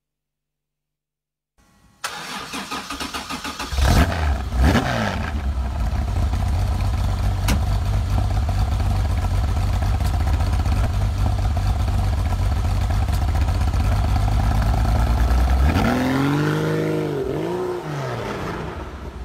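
Rebuilt Porsche 2.5-litre engine started up: the starter cranks for about two seconds, the engine catches with a rev, then idles steadily. Near the end it is blipped a few times, the pitch rising and falling.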